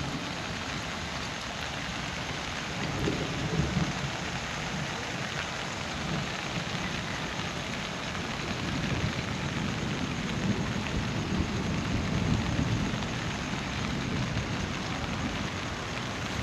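Heavy rain falling steadily in a dense hiss, with low rumbling swells a few seconds in and again in the middle stretch.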